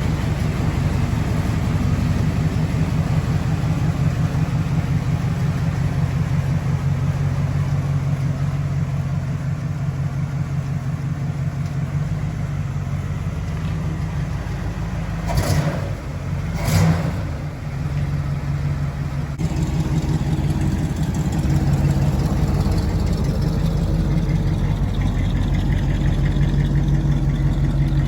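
1962 Cadillac's 390 V8 running steadily after a cold start. Two brief knocks about a second apart come a little past the middle, and the engine note changes slightly a few seconds later.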